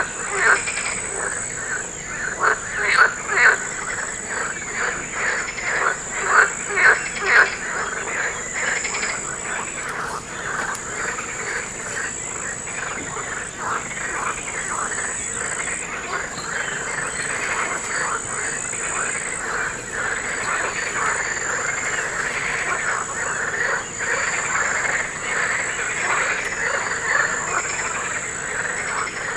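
A chorus of frogs calling after rain: rapid, overlapping croaks that are loudest in the first several seconds, then carry on more evenly. A steady, thin, high-pitched tone runs underneath.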